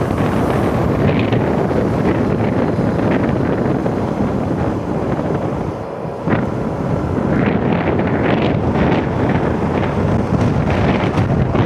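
Heavy wind noise buffeting the microphone of a moving motorcycle, with the bike's engine and road noise underneath; the rush eases briefly about six seconds in.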